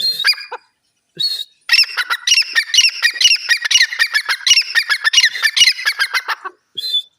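Francolin calling: a few short calls, then a rapid run of repeated notes lasting about five seconds, then one more short call near the end.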